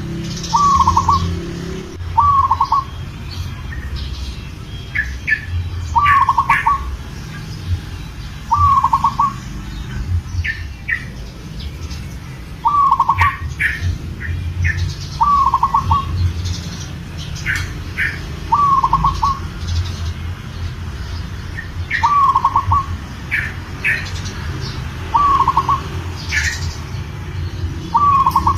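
Male zebra dove (perkutut) cooing, a short stuttering phrase repeated about every two to three seconds, calling a female while in breeding condition. Other small birds chirp in between.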